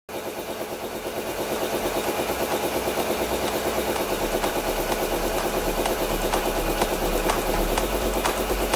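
A machine running steadily with a fast, regular pulse of about three beats a second, with sharp clicks over it in the second half.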